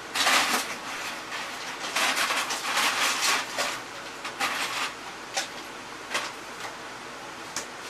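Ice cubes clattering as they are scooped into a cup and tipped out, in several rattling bursts, then a few single clinks.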